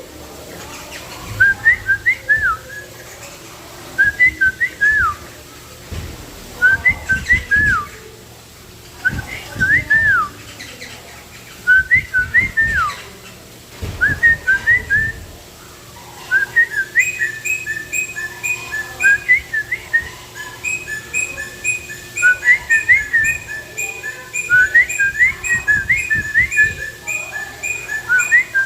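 Birds calling with clear whistled notes: short slurred phrases repeated about every two seconds, then from about two-thirds through a faster, nearly continuous run of whistles with a second, higher-pitched series joining in.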